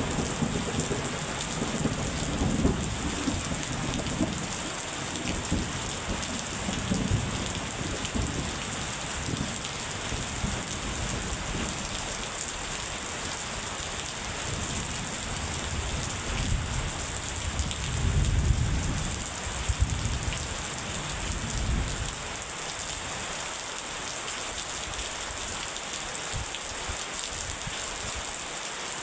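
Steady rain falling, with low rolling thunder rumbling through the first several seconds and again about two-thirds of the way in, then rain alone.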